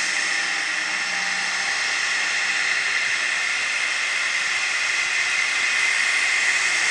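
Cessna Citation CJ2+'s twin Williams FJ44 turbofan engines running steadily: an even hiss with a high, steady whine.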